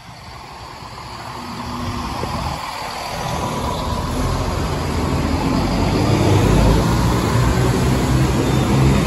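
Diesel train approaching the level crossing, its engine and rumble growing steadily louder as it draws near.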